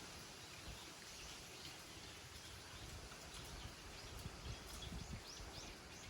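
Faint small-bird chirps, a run of short high calls thickening in the second half, over soft rural wind noise.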